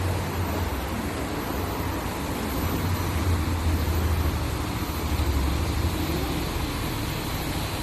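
Steady background rumble: a strong low hum under an even hiss, swelling a little in the middle.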